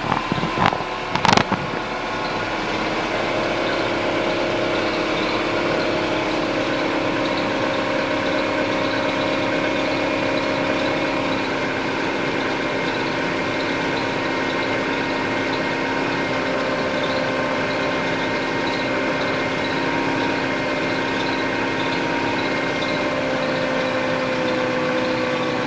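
Mini Cooper engine idling steadily, with steady whining tones running through it. This is the kyuru-kyuru squealing abnormal noise the owner hears when starting from fully cold, and its cause is unknown. A couple of sharp knocks sound in the first second and a half.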